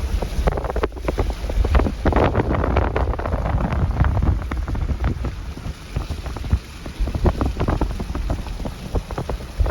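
Wind buffeting the microphone: a heavy, irregular low rumble broken by many short gusts.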